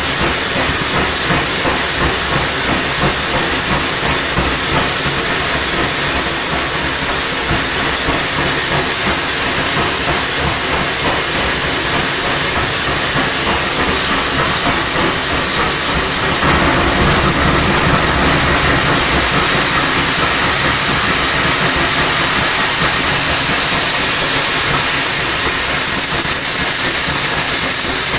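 Homemade KJ-66-style model turbojet engine running, a loud steady jet roar with a high turbine whine. About two-thirds of the way in the whine jumps up in pitch as the engine spools up under throttle, then drifts slowly lower.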